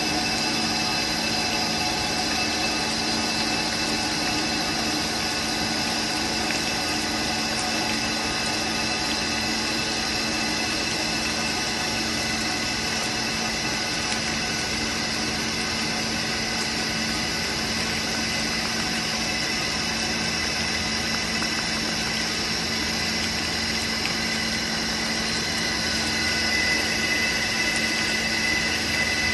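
Biglia B1000-8 CNC lathe running a turning pass: steady machine noise with a low hum and several steady high whining tones. Near the end one whine grows stronger and the sound gets slightly louder.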